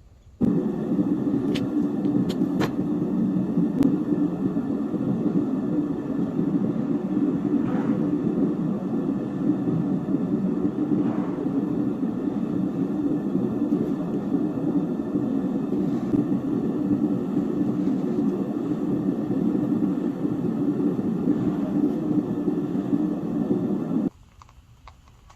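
Melting torch flame running as a steady, flickering rumble while heating silver for a sand-cast pour, then cutting off suddenly near the end.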